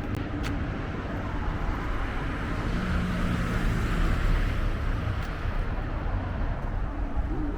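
Outdoor traffic rumble, with a vehicle passing that swells about midway and then fades.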